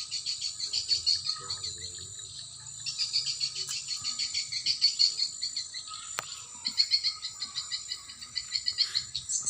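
Edible-nest swiftlets twittering in fast, rattling chirp trills, in runs broken by brief lulls about two seconds in and again near eight seconds.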